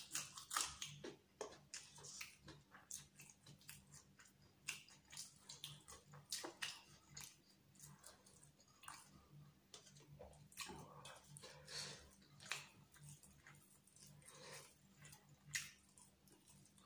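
Close-up chewing and mouth smacking of a person eating chicken biryani by hand: irregular clicks and smacks, several a second.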